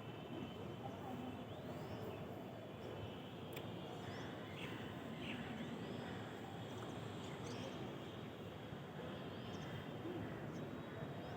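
Morning outdoor ambience: a steady low background rumble with faint birds chirping now and then, short upward-sweeping calls every second or two.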